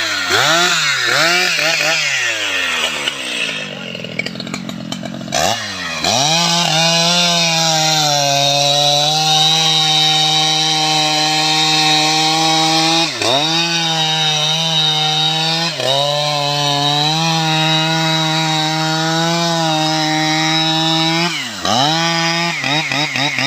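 STIHL MS 881 chainsaw: throttle blipped up and down a few times, then held at full throttle in a long cut through wood. The high steady pitch briefly dips three times.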